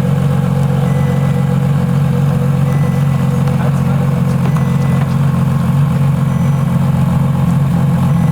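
Car engine idling steadily, a low even drone with no revving.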